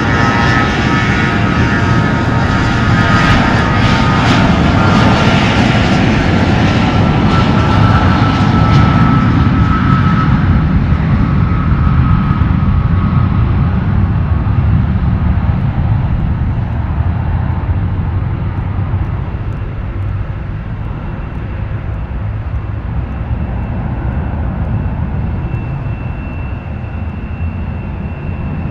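Airliner engines passing close by, loud with a whine for about the first ten seconds, then fading to a steady low rumble as the aircraft moves away.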